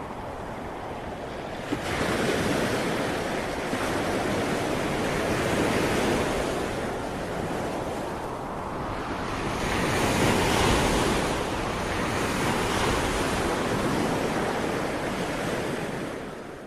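Ocean waves breaking and washing on the shore, a steady surf rising and falling in surges, with a sharp rise about two seconds in and the loudest surge around ten seconds in; the sound dies away right at the end.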